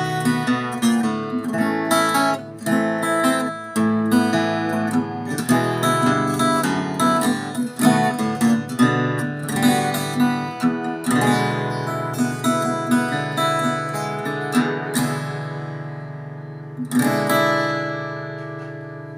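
Handmade Taylor-style steel-string acoustic guitar played solo, a run of picked and strummed chords; near the end one last chord is struck and left to ring out and fade.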